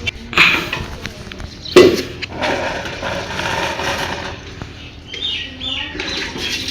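Caged pet parrots giving a few short chirps about two-thirds of the way through, over rustling and handling noise, with a sharp knock about two seconds in.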